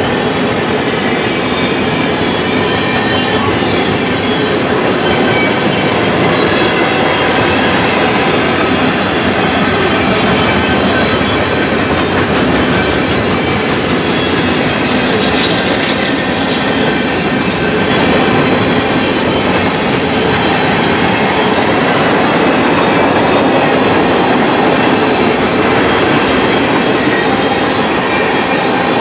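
Freight train cars (gondolas, covered hoppers and tank cars) rolling past close by, their steel wheels running on the rails in a loud, steady clatter.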